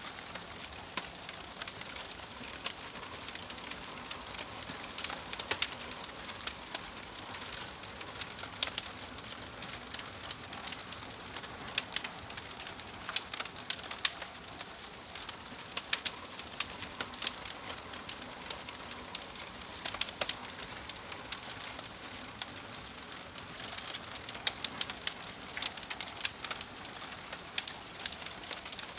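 Fire crackling: a steady soft hiss with frequent, irregular sharp pops and snaps.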